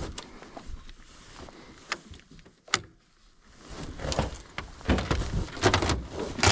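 Irregular clunks, knocks and rattles of a dirt bike being handled in a pickup truck bed, with no engine running. The sound is sparse at first, with one sharp click near the middle, and grows busier from about four seconds in.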